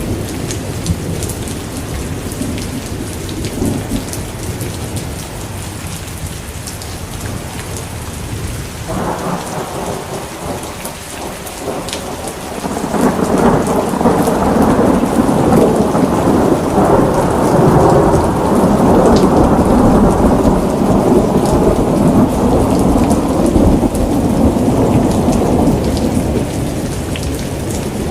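Steady rain with thunder: a low rumble builds about a third of the way in, then a long rolling peal swells up and carries on, slowly fading, until near the end.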